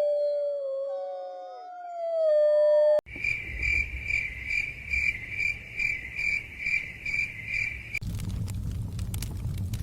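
Canine howling, several voices gliding down in pitch, cut off sharply about three seconds in. Then a cricket chirping steadily about twice a second, and near the end a fire crackling over a low rumble.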